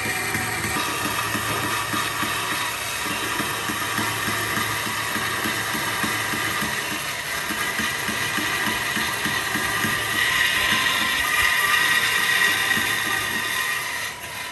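A machine running steadily with an even, rhythmic clatter, getting a little louder about ten seconds in.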